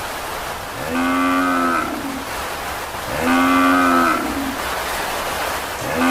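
A cow mooing: a drawn-out moo of about a second, repeated at even spacing with nearly the same shape each time, twice in full and a third starting at the end.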